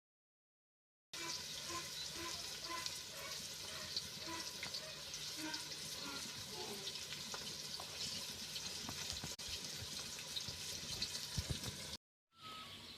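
Water running steadily from a tap into a sink, starting suddenly about a second in and cut off just before the end.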